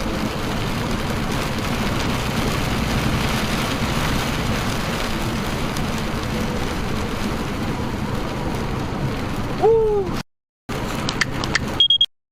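Steady road and engine noise of a car driving, as picked up by a dashcam, with a short falling chirp near the end. It cuts off abruptly, followed by a brief stretch of similar noise with a few clicks and a short high beep.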